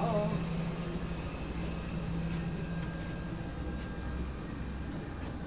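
Steady hum of air-conditioning and equipment fans inside a parked aircraft's cabin, with a constant low tone.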